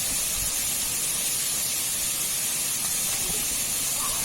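Rushing water at a dam filled by the monsoon rains, a steady, even hiss.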